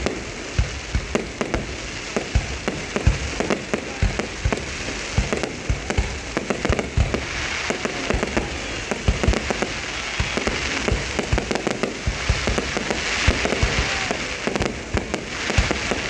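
Fireworks display going off: a rapid, irregular string of bangs and booms, several a second, over a continuous crackling hiss of bursting shells.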